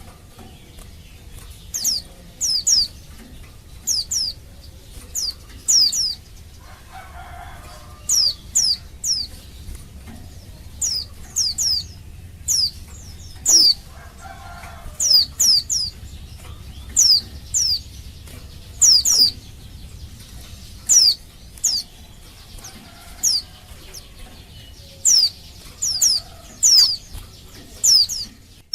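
Female white-eye (pleci) calling: short, high, downward-falling chirps in pairs and threes, repeated about every second or two. It is a female's call to attract males.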